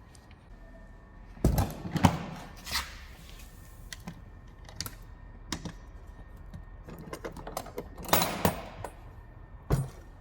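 Workshop hand work on steel parts: a few sharp knocks and clanks in two clusters, about a second and a half in and again near the end, with light ticking between.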